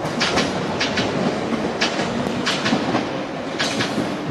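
London Underground Piccadilly line 1973 Tube Stock train pulling out of the station: steady rumble with its wheels clicking over the rail joints in quick pairs, about once a second.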